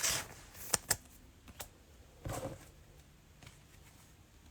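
Trading cards and packs being handled on a table: a short rustle, two sharp clicks just under a second in, and another brief rustle a little past two seconds.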